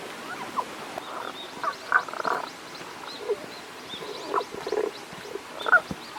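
Tago's brown frogs (Rana tagoi) calling: short, low calls come irregularly, some in quick runs of several notes.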